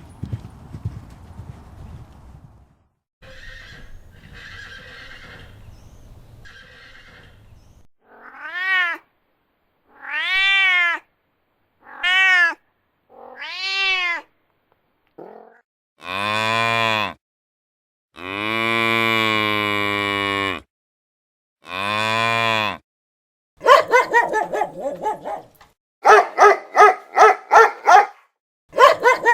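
A run of animal calls: four short meows of a cat, each rising and falling in pitch, then three long, low, steady moos of a cow, then a quick run of short repeated calls near the end.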